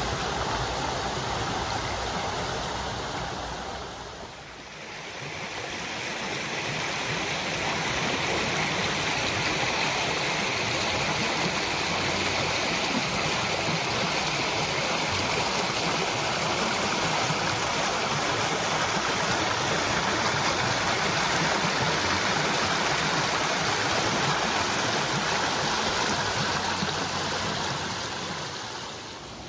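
Running water: a stream or small rapids flowing with a steady rush. The sound dips briefly about four seconds in.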